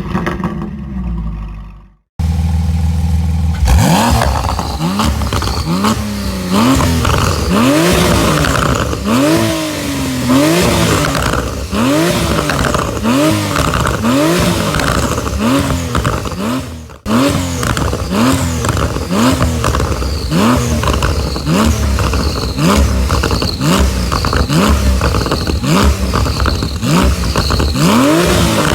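Porsche 911 Turbo S twin-turbo flat-six being free-revved through a custom sport exhaust with the particulate filter retained. It is repeated quick throttle blips, about one a second, each rising sharply in pitch and dropping back.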